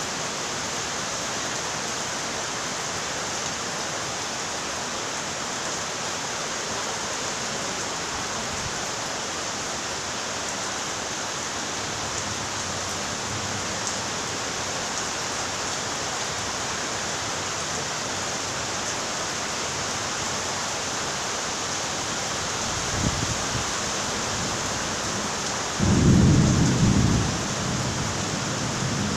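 Steady rain falling, with thunder: a short low rumble late on, then a louder roll of thunder near the end that fades to a lower rumble.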